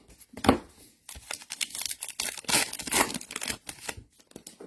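Trading-card pack wrappers being torn open and crinkled: an irregular run of crackles and rips, with a louder burst about half a second in.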